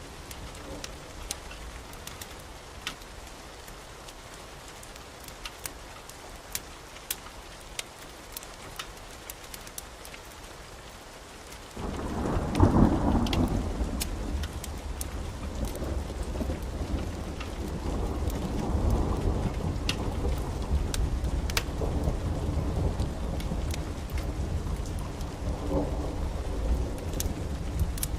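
Steady rain with scattered sharp crackles; about twelve seconds in a loud clap of thunder breaks and rolls on as a long, swelling rumble.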